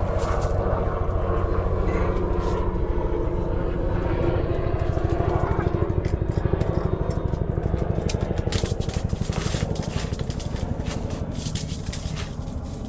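An engine running steadily with a low hum, with scattered sharp clicks and knocks in the second half.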